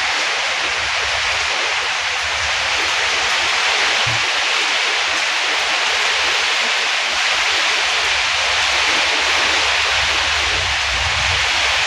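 Heavy rain pouring down in a windstorm, a steady loud hiss, with gusts of wind buffeting the microphone as low rumbles early on and again near the end.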